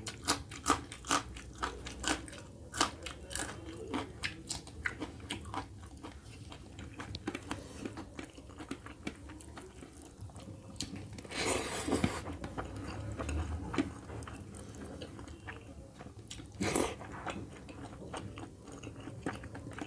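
Close-miked mouth sounds of eating: a raw green chilli being bitten and crunched, with many sharp crisp crunches in the first few seconds, then softer chewing of curry and rice. Two longer hissy sounds come through, one about halfway and one near the end.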